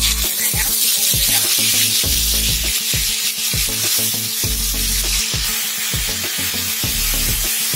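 Onion, garlic and ginger paste sizzling steadily as it goes into hot oil in a nonstick pan and is stirred with a wooden spatula. The sizzle starts the moment the paste hits the oil.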